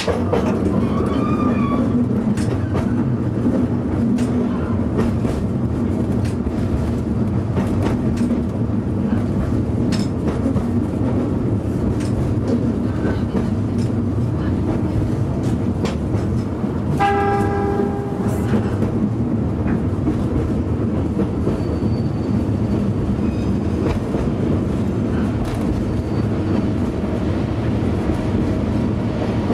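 Oigawa Railway Ikawa Line passenger train climbing the Abt rack incline, pushed by its ED90 rack electric locomotive: steady running rumble with frequent clicks from the wheels and track. A little past halfway, the train's horn sounds one short blast of about a second and a half.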